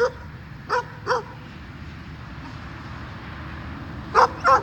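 A dog giving short, high yipping barks: three in quick succession, then a pause, then two more near the end.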